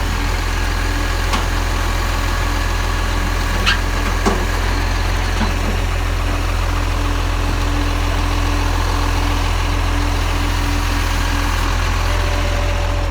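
Garbage truck's diesel engine running with a steady low rumble, with a few light clicks and knocks about four seconds in.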